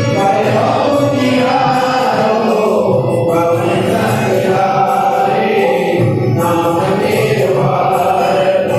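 Devotional group singing: voices chanting together in chorus over music, continuous and steady.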